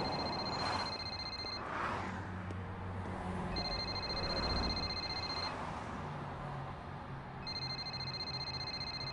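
Electronic telephone ringer warbling in repeated rings, each about two seconds long with about two seconds between them. Three rings are heard.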